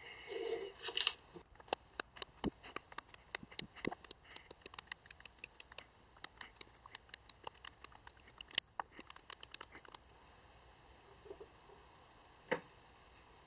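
A steel awl pricking a dotted outline through a paper template into a wooden axe handle: quick, irregular ticks, about five a second, for some eight seconds, after a second of paper rustling. Then it goes quiet apart from a single click near the end.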